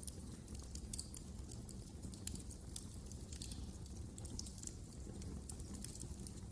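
Wood fire in a fireplace crackling, with frequent irregular small sharp pops over a low steady rumble.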